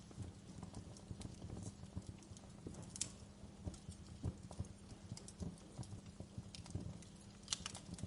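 Wood fire crackling in a fireplace: a steady low rumble of burning logs with irregular sharp pops and snaps, a louder pop about three seconds in and several close together near the end.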